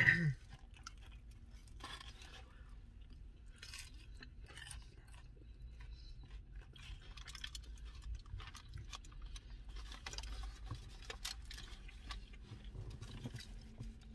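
Close-up chewing and crunching of a fried queso birria taco, in small irregular crunches.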